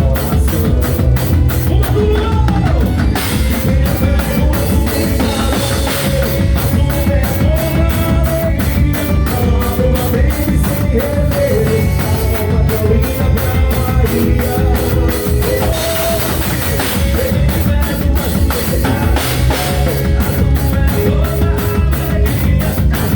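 Drum kit played to a rock song, a steady beat with a melody line over it.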